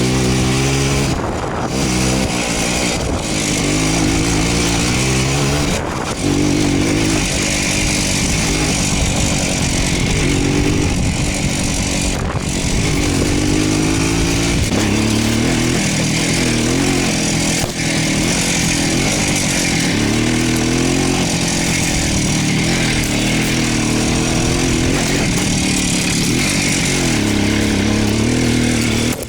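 Voskhod motorcycle's single-cylinder two-stroke engine running under way, its pitch rising and falling with the throttle, with a few brief drops in the sound in the first half.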